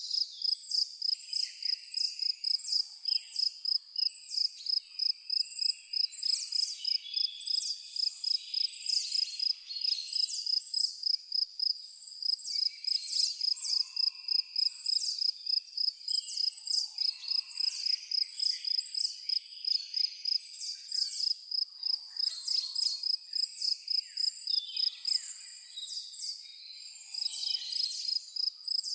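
Forest ambience: a cricket chirping steadily in an even, rapid pulse at a high pitch, with several birds calling and singing over it in short chirps and falling notes.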